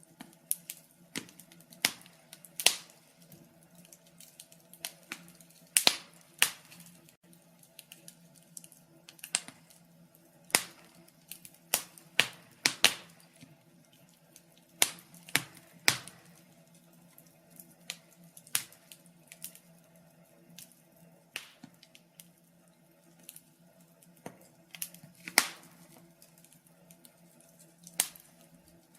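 Wood fire crackling: irregular sharp pops and snaps at uneven intervals, some much louder than others, over a faint steady low hum.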